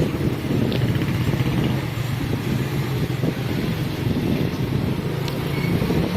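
Small motorbike engine running steadily while riding, with wind buffeting the microphone.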